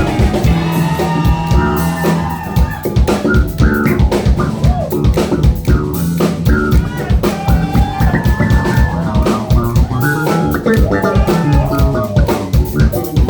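A live band playing an instrumental passage: drum kit keeping a steady beat under electric guitar and bass guitar.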